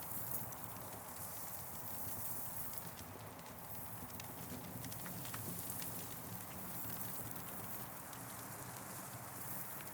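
Campfire crackling: scattered sharp pops and snaps over a steady hiss, with a low rumble underneath.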